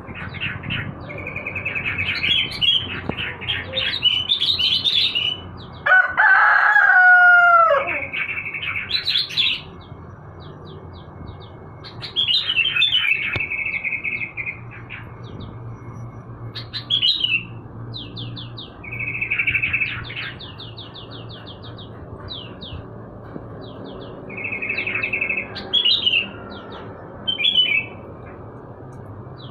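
Caged songbirds, trucuk (yellow-vented bulbuls) among them, singing in short, quick chirping phrases that recur every few seconds. About six seconds in a rooster crows once, a loud falling call that is the loudest sound.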